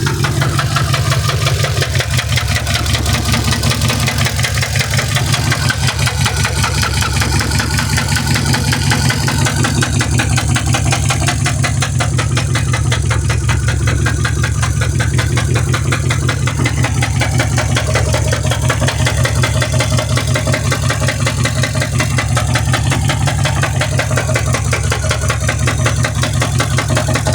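Mercedes-Benz S550 W221 4Matic V8 engine running steadily, with a fast, even ticking pulse over its hum. This is the unexplained noise the owner is asking about.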